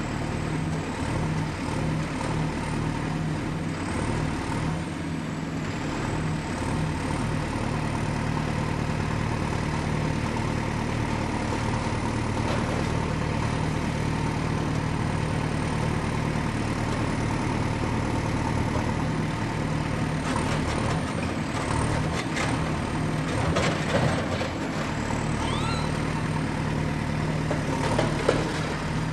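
Excavator diesel engine running steadily with a high hydraulic whine, and intermittent metallic clanks and scrapes in the second half, the sharpest about 24 and 28 seconds in.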